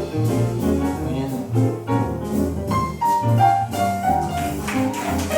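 Live jazz instrumental break in a swing feel: piano over a walking bass line, with a short melodic phrase of held notes in the middle.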